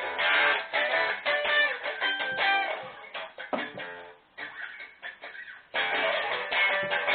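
Solo guitar playing, a mix of plucked notes and strummed chords. The playing thins out and goes quieter past the middle, then comes back full and loud near the end.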